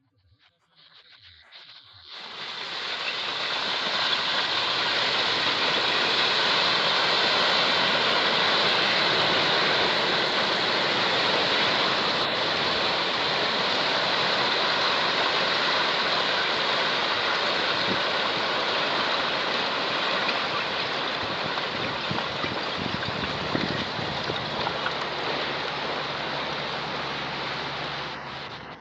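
Steady rushing noise of churning water. It swells over about two seconds, holds steady, and eases off near the end.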